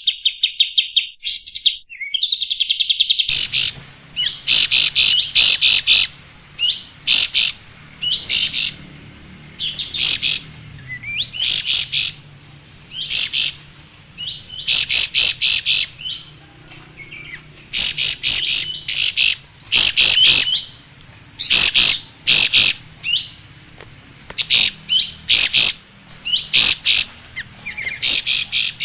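Sooty-headed bulbul (kapas tembak) singing: short, rapid chattering trills repeated about once a second, over a faint low hum from about three seconds in.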